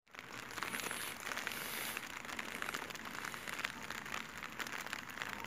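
Steady rain falling, a dense patter of drops over a hiss.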